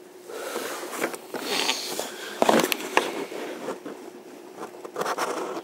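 Rain falling and pattering, with many close drips and taps; it swells about a quarter second in and is loudest about halfway through.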